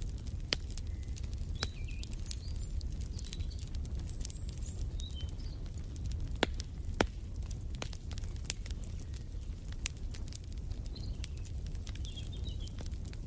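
Wood fire in a fireplace crackling, with frequent sharp pops over a low rumble; the two loudest pops come about six and seven seconds in. Small birds chirp briefly now and then.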